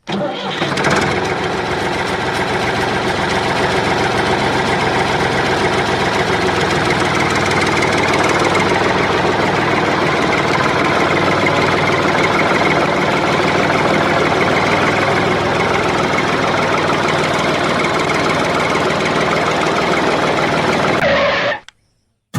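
Small engine running steadily at an even speed, with a knocking engine note, then cutting off abruptly near the end.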